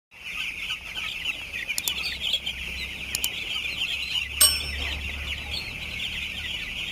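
A crowd of four-day-old broiler chicks peeping together in a continuous chorus, over a low hum. A sharp clank rings out about four and a half seconds in.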